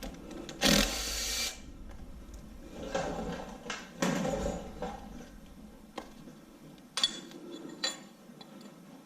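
A power driver runs briefly, under a second, about a second in, backing out a cam retainer plate bolt on an LS V8; then softer handling noise and a few sharp metallic clicks of bolts and tools being set down.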